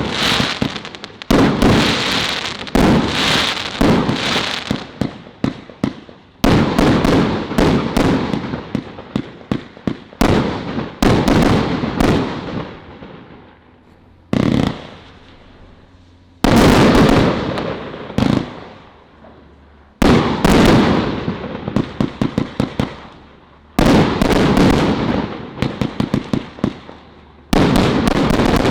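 A 'Hasta La Vista Baby' consumer firework cake from Celtic Fireworks firing. Shots burst every few seconds, and each is followed by a dense spray of quick pops and crackle from the strobe and crackling effects that dies away before the next shot.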